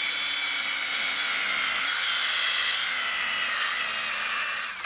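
Electric hand drill spinning a buffing wheel against a motorcycle wheel rim to polish it, a steady high whine that cuts off at the very end.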